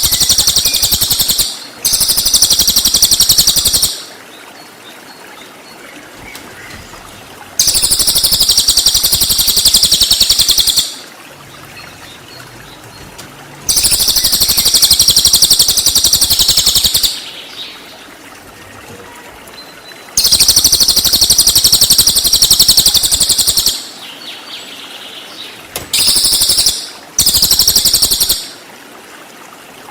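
Recorded cililin bird song: loud, high, rapid rattling trills in the bird's 'tembakan' (rapid-fire) style. Each phrase lasts about one to three and a half seconds, and the phrases repeat about six times with short pauses between them.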